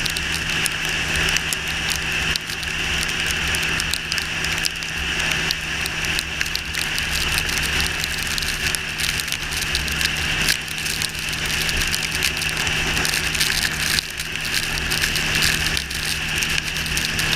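Yamaha R6 inline-four motorcycle engine running at a steady pitch, with the hiss and crackle of rain and wind on the microphone.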